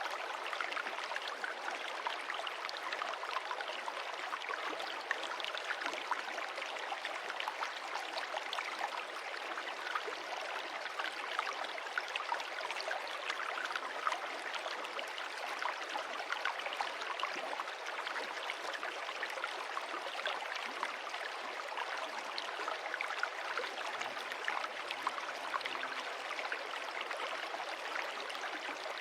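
Stream water running and splashing over stones: a steady rushing with many small splashes and droplets, even in level throughout.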